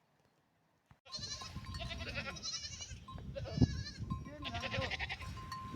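Flock of sheep bleating, many calls overlapping, starting suddenly about a second in.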